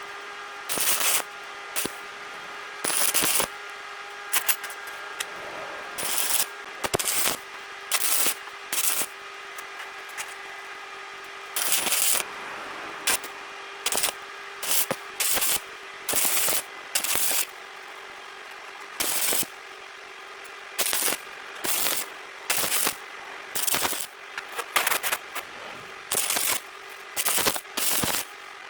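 Arc welding in short tack welds: a couple of dozen brief crackling bursts, each under a second, with short gaps between them and a steady hum underneath.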